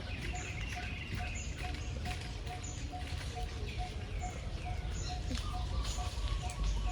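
Birds calling in the trees. One bird repeats a short low note evenly about twice a second, while others add short high notes and falling chirps, over a steady low rumble of wind on the microphone.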